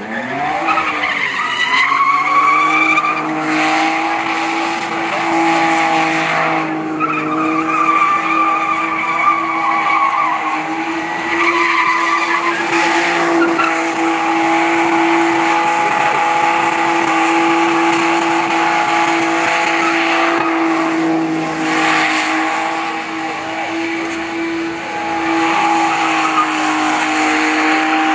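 Car engine held at high, steady revs during a burnout, with the spinning rear tyres skidding and squealing; the revs climb in the first second and then hold.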